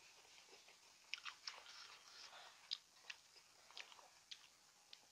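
Quiet chewing of crispy deep-fried sweet and sour pork, with scattered small crunches and clicks.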